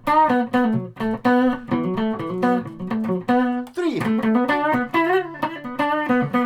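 Electric guitar, a Stratocaster with its pickups wired in series, playing a short picked riff over and over with no accompaniment. About four seconds in there is a brief pitch bend as the pickup switch moves to the next position, and a single spoken number. The series wiring gives a fuller, humbucker-like tone.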